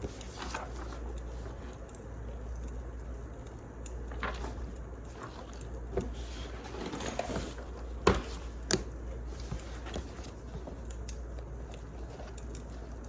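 Wood fire crackling: scattered small snaps and pops over a steady low rumble, with two sharper pops a little past the middle.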